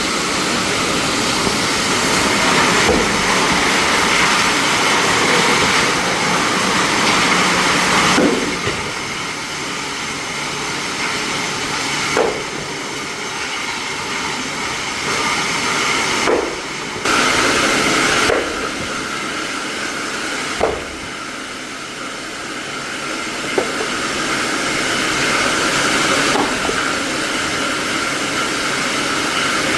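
Plastic-processing factory machinery running with a loud, steady hiss that shifts in level every few seconds, broken by a few sharp clicks.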